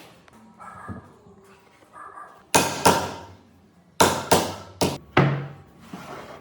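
Hammer blows, six sharp strikes each ringing briefly: two about two and a half seconds in, then four more about a second and a half later.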